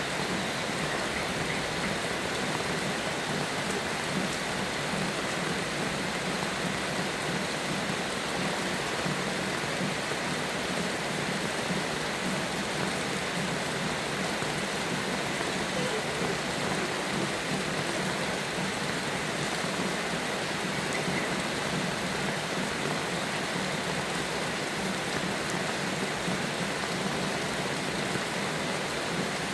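Steady rainfall, an even hiss of rain falling on surfaces that holds at a constant level throughout.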